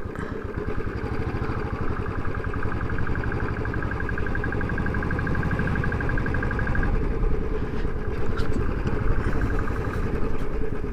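Motorcycle riding along a road, engine and wind rumble steady. From about a second in until about seven seconds in, a fast, evenly pulsing high tone sounds over it.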